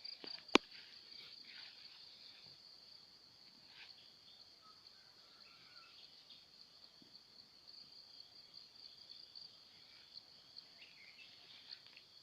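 Insects, crickets by their sound, trilling steadily at a high pitch in a rural morning. A few faint bird chirps are mixed in, and there is one sharp click about half a second in.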